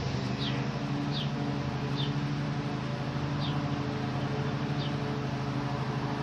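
A steady low hum, with a small bird's short high chirps, each falling in pitch, every second or so.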